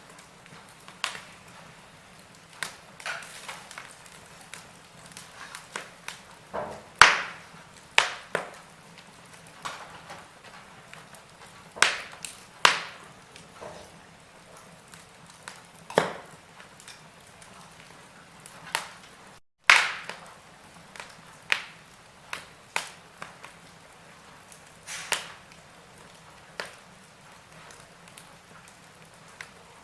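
Wood fire crackling, with irregular sharp pops from a second to several seconds apart over a faint steady hiss. The sound cuts out for an instant just past the middle, right before one of the loudest pops.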